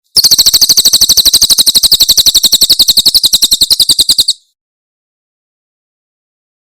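A cililin's 'tembakan' call: a rapid, machine-gun-like burst of about a dozen high, sharp notes a second, held for about four seconds before it stops abruptly.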